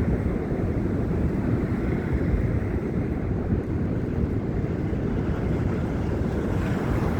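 Wind buffeting a phone's microphone in a snowstorm: a steady, low rumble with no distinct events.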